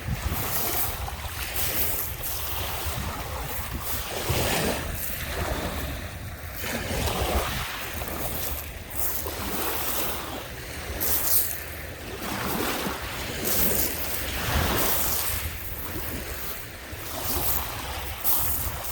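Lake Michigan waves washing onto the beach, swelling and easing every few seconds, with wind rumbling on the microphone.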